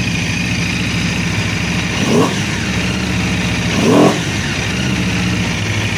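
Aprilia RSV4 RR's V4 engine idling steadily, blipped twice with short throttle revs about two seconds apart.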